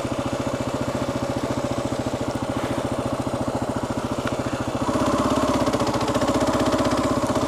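Kawasaki KLR 650's single-cylinder engine running steadily, getting louder about five seconds in.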